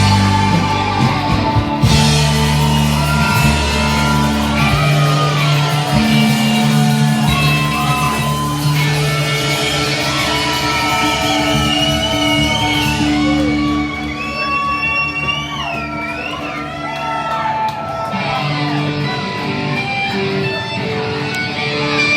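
A live rock band playing, led by guitar, in a large room. It gets a little quieter for a few seconds in the middle.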